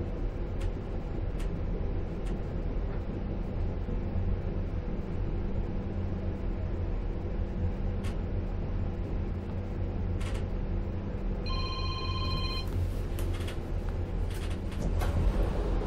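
Inside a passenger train coach running at speed: a steady low rumble with a few faint ticks. About three-quarters of the way through, a brief electronic tone sounds for about a second.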